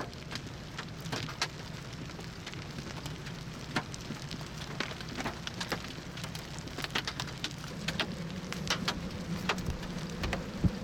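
Rain striking a storm-chase vehicle in scattered, irregular sharp taps, over a low steady hum that grows a little louder about eight seconds in.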